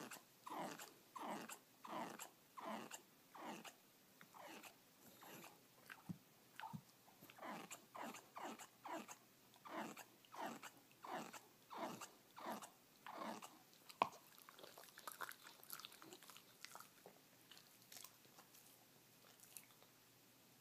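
Dog chewing with repeated wet, smacking mouth sounds, about two or three a second, growing sparser and fainter after about 14 seconds.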